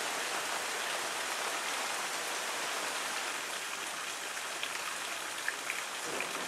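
Steady rain falling in a thunderstorm, an even hiss with a few distinct drop ticks in the second half.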